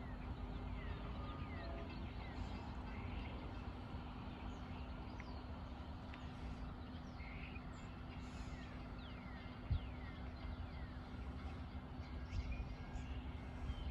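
Birds chirping in short falling calls over a steady low hum and rumble, with a single brief thump about ten seconds in.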